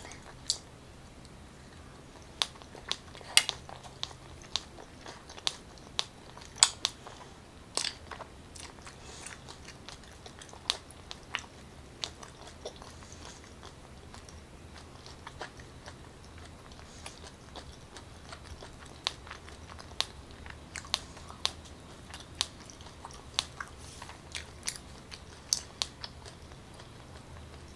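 Close-miked chewing of a soft takoyaki (octopus ball): irregular wet mouth clicks and smacks, a few a second, over a faint steady low hum.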